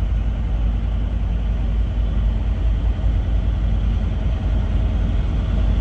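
The 7.3-litre IDI turbo-diesel V8 in a 1973 Ford F-250 running steadily with a deep, even drone.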